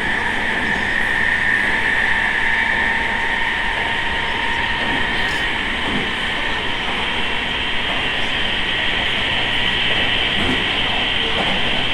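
Interior running sound of an E217 series electric multiple unit: a steady rumble of wheels and rails under a high motor whine that climbs in pitch over several seconds.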